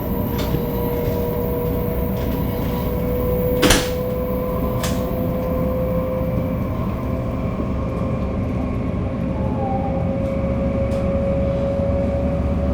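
Shinkansen 500 series running, its Toshiba GTO-VVVF inverter drive whining in a single tone that slowly rises in pitch as the train gains speed, over a steady low rolling rumble. There is one sharp click about four seconds in.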